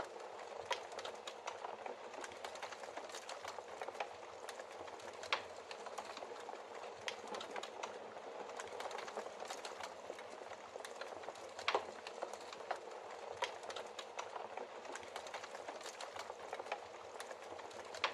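Wood logs burning in a fireplace: a steady hiss with irregular crackles and pops throughout, one louder pop about twelve seconds in.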